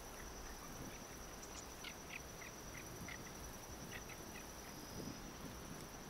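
Faint outdoor ambience with a run of about eight short, high bird calls between the first and fourth seconds, over a steady high whine.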